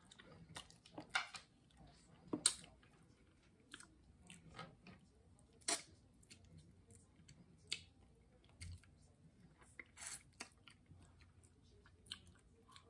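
Close-up chewing and lip smacking while eating seafood boil with the fingers, heard as irregular sharp wet clicks and smacks.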